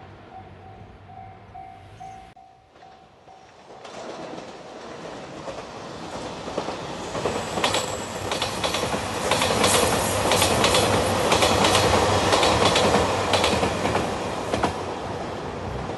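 Japanese level-crossing alarm ringing its repeating electronic ding for the first couple of seconds. After a cut, a JR Shikoku 2700 series diesel express train passes close by, its wheels clattering over the rail joints, louder through the middle and tailing off near the end.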